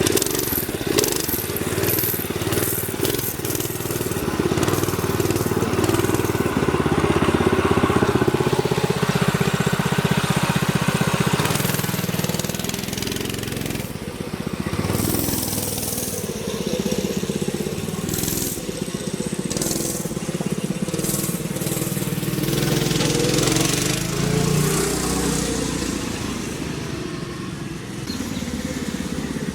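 Mini bike's small engine running as it is ridden around, the engine note rising and falling with the throttle. It is loudest about eight to twelve seconds in and again around twenty-three seconds in.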